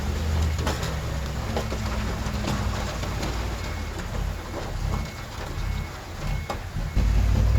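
Heavy diesel earthmoving machinery running, its low engine drone easing off in the middle and coming back loud near the end, with scattered crackling clatter over it. Faint short beeps repeat in the background.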